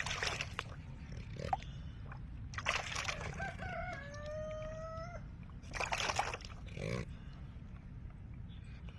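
A rooster crowing once: a few short rising notes, then one held note of about a second. Short bursts of rustling noise come before and after the crow.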